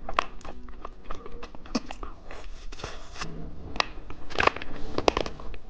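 Close-up crackling and crunching of candy and its plastic wrapping, in quick, irregular snaps that come thickest about five seconds in.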